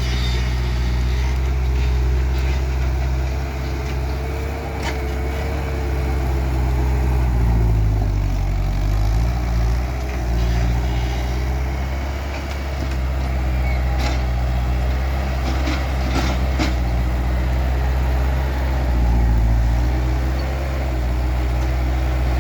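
Skid steer loader's diesel engine running hard, its pitch sagging twice as it is loaded down and then recovering, with a few sharp knocks.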